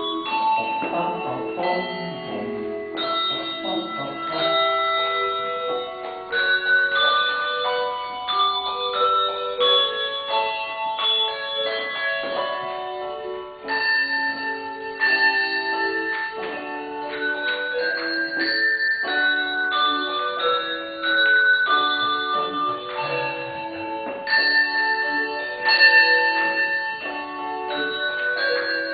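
A choir of English handbells playing a gentle, flowing piece, many bells struck in overlapping notes and chords that ring on after each strike.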